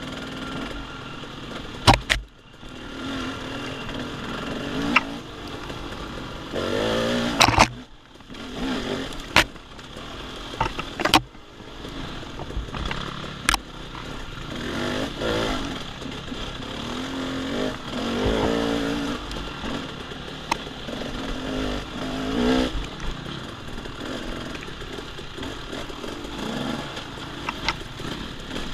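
Off-road dirt bike engine revving up and down as it is ridden along a wooded trail, its pitch rising and falling with each burst of throttle. Several sharp knocks cut through the engine noise.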